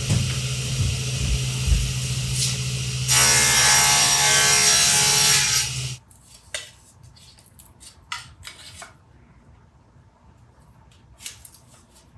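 A shop power tool's motor running steadily, then working into wood with a louder, rasping noise for about three seconds before it shuts off suddenly. A few light knocks and clicks follow.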